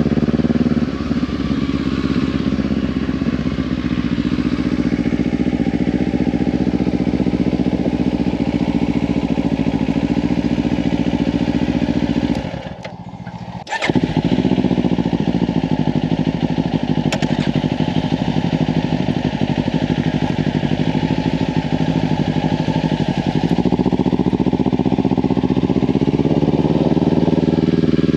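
Kawasaki Ninja 500 parallel-twin with a Leovince slip-on exhaust running at road speed under heavy wind noise on the microphone. The sound briefly drops away for about a second a little before halfway, and the engine pitch climbs near the end as the bike accelerates.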